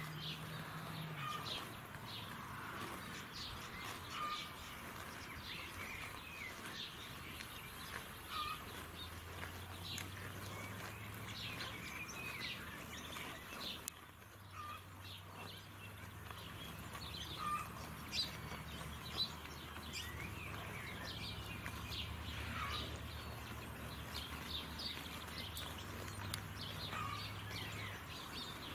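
Small birds chirping and singing, many short calls throughout, over a low steady hum.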